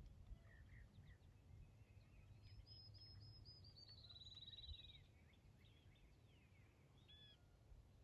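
Near silence with faint birdsong: a few high notes followed by a quick trill that slides slightly down in pitch a few seconds in, with scattered short chirps over a low rumble.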